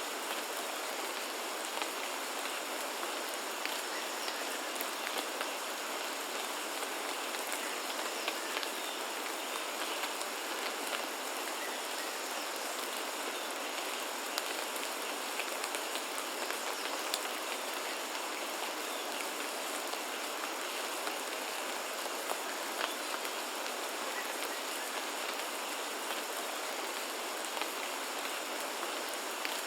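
Steady rain falling on foliage, with many individual drops ticking through an even hiss.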